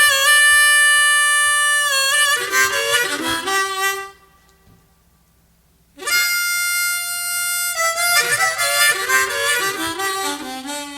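Harmonica playing two short phrases separated by a pause of about two seconds. Each phrase opens on a long held note and then moves through a run of shorter notes.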